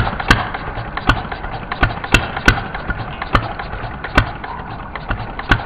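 Small four-stroke gasoline engine running steadily, with sharp clicks at uneven intervals of about a third of a second.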